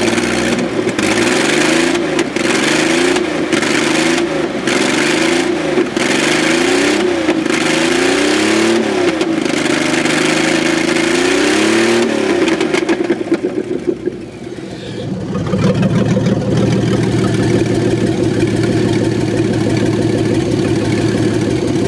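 1994 Chevrolet Astro van's 4.3-litre V6 being blipped, about ten quick revs roughly a second apart, then easing back and settling into a steady idle for the last several seconds. The owner says the misfire can be heard when it is revved.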